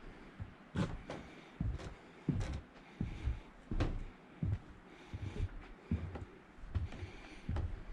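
Footsteps at an even walking pace, about one step every three-quarters of a second, heard as dull thumps with a few sharper crunches.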